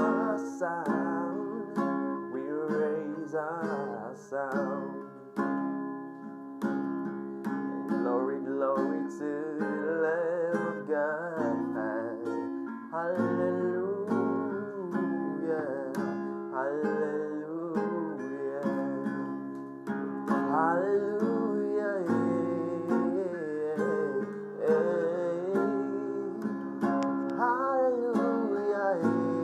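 Guitar music: a melody with wavering, sliding notes over sustained chords.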